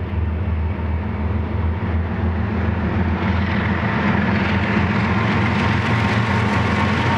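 BNSF diesel-electric freight locomotives passing close, their engines making a steady low drone, followed by the rumble of double-stack intermodal cars rolling on the rails, growing louder from about three seconds in.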